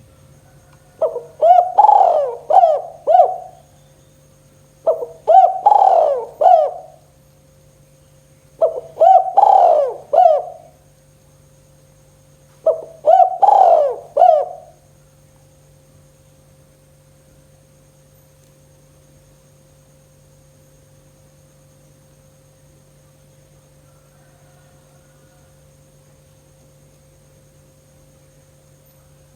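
Spotted dove (tekukur) cooing: four song phrases of several coos each, coming about every four seconds, then it falls silent for the second half, leaving only a faint steady hum.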